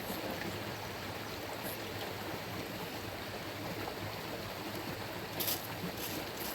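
Steady rush of running water, with a couple of brief, high, hissy ticks about five and a half seconds in.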